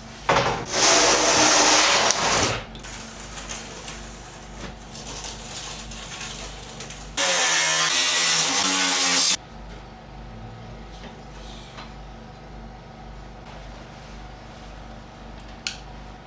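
A small compressed-air abrasive blaster firing two hissing blasts of about two seconds each, one at the start and one about seven seconds in. Under them an air compressor hums steadily.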